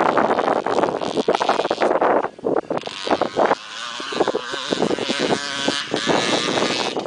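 Motocross bike engine running hard on the track, its pitch rising and falling with the throttle, with wind buffeting the microphone. The sound is rough and noisy at first, dips briefly about two seconds in, then turns into a clearer, pitched engine note that swells and fades.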